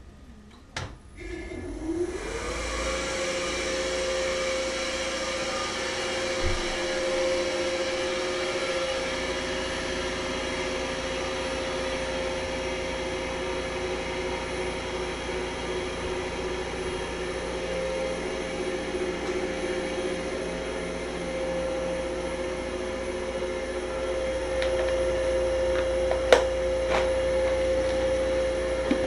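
Kärcher MV 6 P Premium wet-and-dry vacuum cleaner switched on about two seconds in, its motor whine rising to speed and then running steadily. A couple of sharp knocks near the end.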